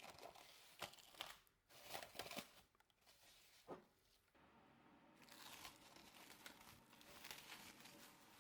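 Faint rustling with a few light clicks and taps: hands working oil over bread dough in a greased container.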